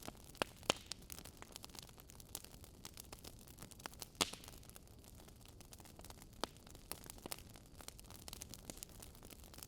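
Wood fire crackling: irregular sharp pops and snaps over a soft hiss, the loudest pop about four seconds in.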